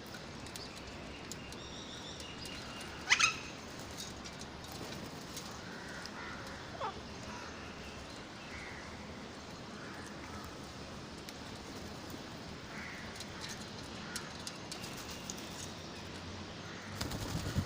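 Parrots calling: one loud, short squawk about three seconds in, then scattered faint chirps and a single falling whistle.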